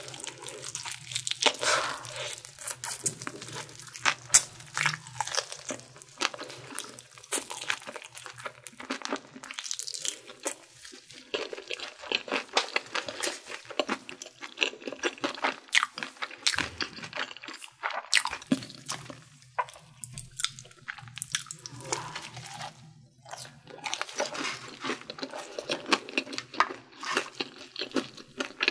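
Crispy Korean fried chicken being bitten and chewed close to the microphone: a continuous run of sharp crackly crunches and chewing.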